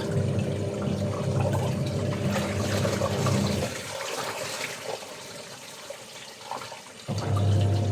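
Water running during laundry washing, with a low hum that cuts out a little under four seconds in and comes back about seven seconds in.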